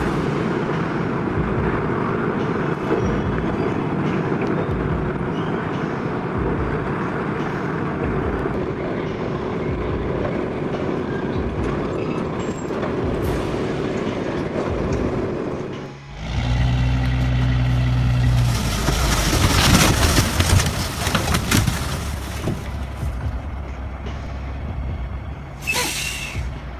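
Heavy vehicle engine running steadily. After a sudden break about 16 seconds in, a deeper engine hum follows, then a loud hissing rush and a short sharp hiss near the end.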